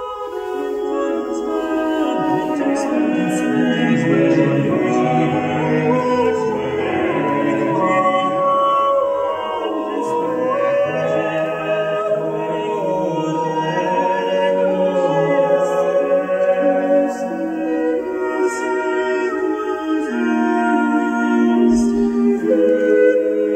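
Recorded music with singing, played back through Bose 301V speakers driven by a Yamaha RX-V496RDS receiver.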